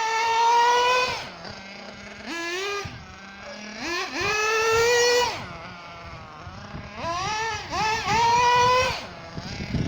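The .21 nitro engine of an Ansmann Virus RC buggy, revved in repeated throttle bursts. The pitch climbs to a high, steady whine, holds for about a second, then drops back toward idle, four times over, three of them long pulls.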